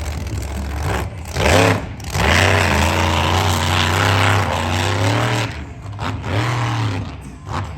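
A big engine revving: short blips of throttle, then held hard at high revs for about three seconds before dropping back, with a few more blips near the end.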